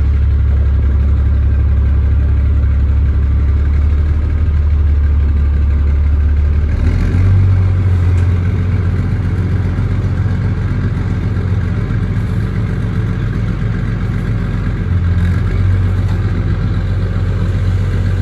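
International 4900 truck's diesel engine running at a low steady idle, stepping up to a higher speed about seven seconds in and easing back briefly near fifteen seconds.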